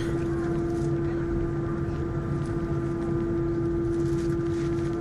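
Airbus A321 cabin noise heard from a window seat: a steady jet-engine and airflow drone with a constant hum, unchanging in level.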